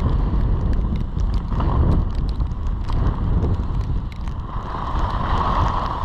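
Wind buffeting a GoPro's microphone during a ski run, with skis scraping and chattering over the snow; the scraping hiss swells about five seconds in.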